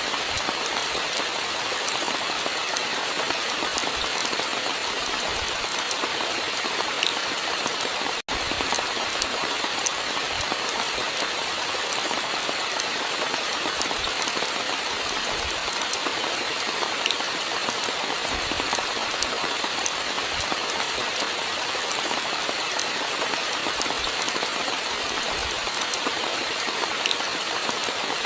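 Steady rainfall: a dense, even hiss of rain with many small individual drop taps. It cuts out for an instant about eight seconds in.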